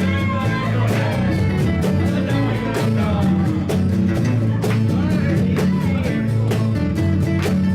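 Live band playing an instrumental passage: guitar over a steady bass line and a regular drum beat.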